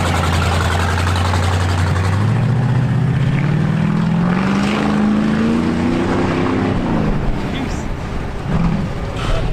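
A truck engine runs at a steady low note for about two seconds, then revs up with rising pitch as it pulls away for about four seconds, and falls off around seven seconds in.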